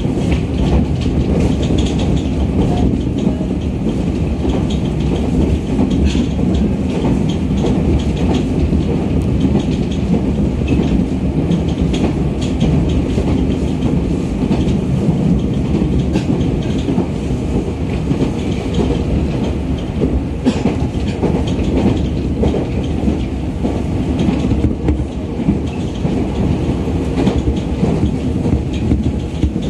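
Running noise heard inside a JR 211 series electric train at speed: a steady rumble of steel wheels on the rails, with scattered clicks as the wheels pass over rail joints.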